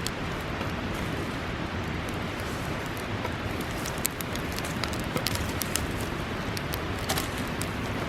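A steady rushing noise, like running water or rain, with scattered sharp crackles and ticks that come more often from about halfway through.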